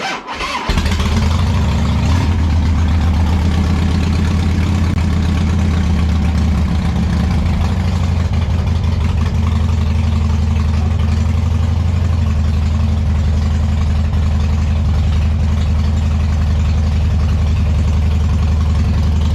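Harley-Davidson V-twin motorcycle engine cranking briefly on a freshly recharged battery and catching about a second in, then idling steadily.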